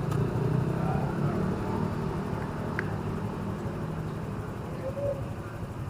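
A vehicle engine running steadily amid street traffic, its low hum slowly fading, with a single short click about three seconds in.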